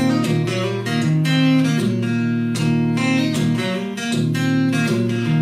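Acoustic guitar strummed in a steady rhythm, an instrumental stretch of a country song with no singing.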